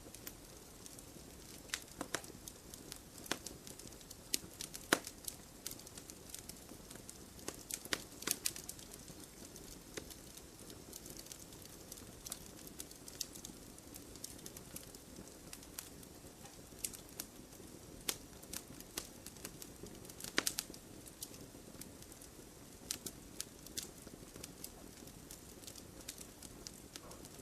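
Wood fire crackling in a fireplace: irregular sharp snaps and pops of burning logs over a low steady hiss, with louder snaps about five seconds in and again about twenty seconds in.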